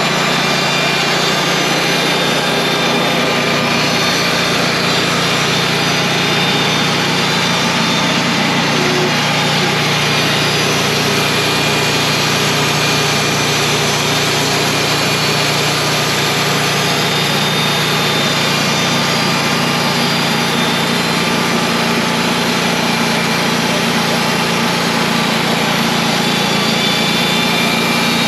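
Engine running steadily at an even speed, with no change in pitch or load.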